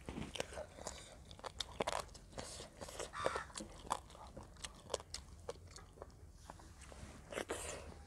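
A person chewing and biting chicken pieces, with repeated short crunches and wet clicking mouth sounds at an irregular pace.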